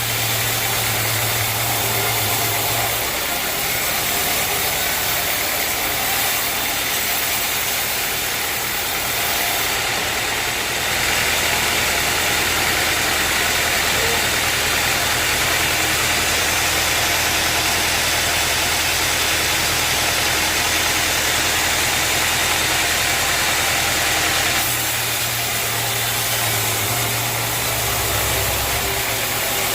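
Sawmill machinery running steadily with a low hum. From about ten seconds in, a louder hiss joins it and then drops away again shortly before the end.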